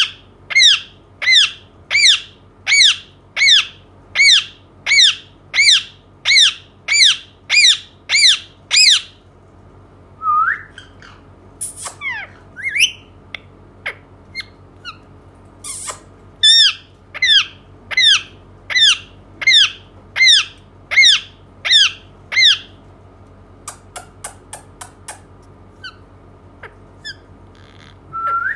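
Indian ringneck parakeet squawking: a long series of loud, evenly repeated calls, about one every two-thirds of a second, broken by a pause with a few scattered notes before the calls resume. Near the end come a quick series of short, faint clicks.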